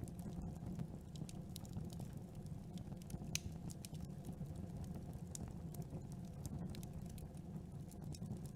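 Campfire burning with a low steady rumble and irregular sharp crackles and pops of burning wood, one louder pop about three seconds in.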